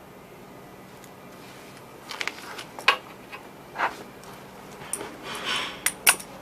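Sharp clicks and knocks of hand tools and parts being handled while the old compressor's mounting bolts are taken out, starting about two seconds in over a faint steady hum.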